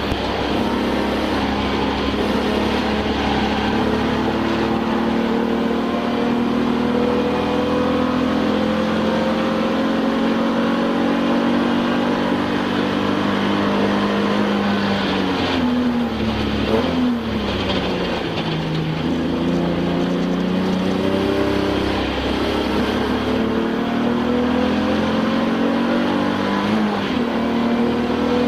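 Touring-car race car's engine heard from inside the cockpit under racing load. Its pitch climbs slowly over a long stretch, falls with a couple of quick blips around 15 to 18 seconds in, as on braking and downshifting for a corner, then climbs again and dips once more near the end.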